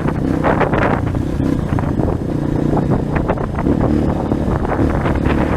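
A 230 cc trail motorcycle's engine running under way, its pitch shifting slightly, with wind rushing over the microphone and scattered short knocks.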